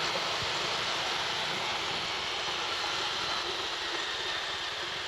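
Steady rush of wind and road noise on the rider's microphone while riding a motorcycle at speed, with no clear engine note.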